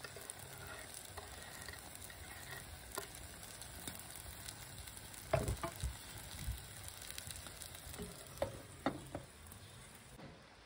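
An egg omelette with chopped tomatoes frying in a nonstick pan, giving a steady sizzle with small crackles. A few sharper knocks come about halfway through and again near the end, and then the sizzle goes duller as a glass lid covers the pan.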